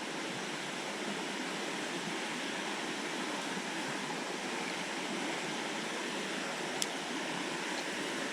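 Steady rush of flowing creek water, an even hiss with no rhythm. A single short, sharp click comes near the end.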